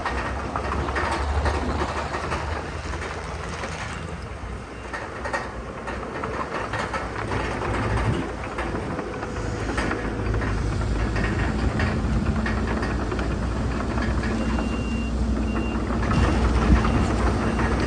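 Bulldozer's diesel engine running under load with clanking and rattling from its crawler tracks, getting louder about halfway through. A brief high beep sounds about three-quarters of the way in.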